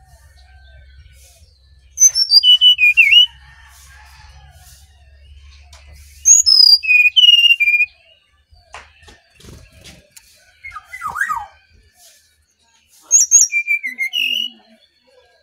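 Brown-chested jungle flycatcher singing: three loud phrases a few seconds apart, each opening on high whistled notes that drop into lower warbling notes, with softer scattered notes and clicks between the second and third phrase.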